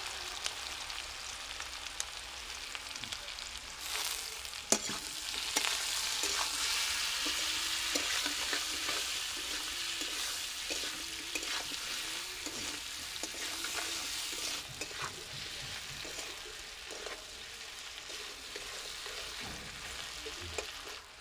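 Papaya pieces frying in hot mustard oil in a kadai, sizzling steadily. Two sharp knocks come about four seconds in, and the sizzle grows louder soon after, then eases off in the last few seconds.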